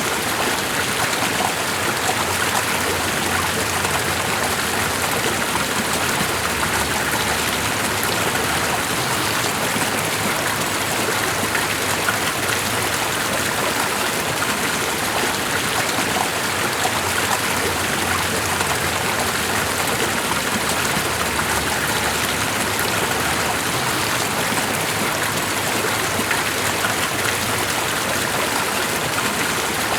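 Stream water running steadily, an even rushing sound that never changes.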